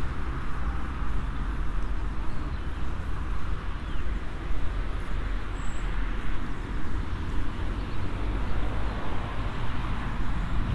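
Steady outdoor traffic noise: a constant low rumble with a hiss of distant road traffic, and a brief high chirp about six seconds in.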